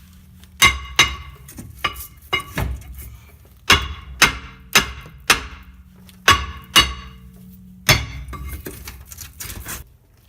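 Hammer blows on the back of a 2008 Dodge Nitro's rear brake rotor, about a dozen sharp ringing metal strikes in twos and threes, to break the rust-frozen rotor loose from the hub.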